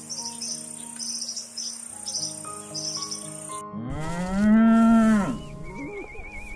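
Crickets chirping in quick repeated pulses over soft held tones, then after a cut a cow moos once, loud, a long call that rises and falls in pitch, followed by a high warbling whistle.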